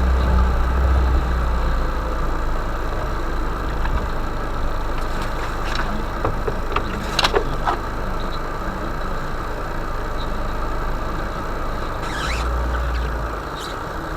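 A vehicle's engine running steadily, with a few sharp knocks and rattles; the loudest comes a little past halfway.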